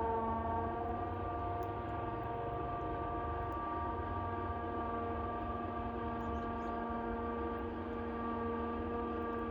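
A steady hum of several held tones over a low rumble.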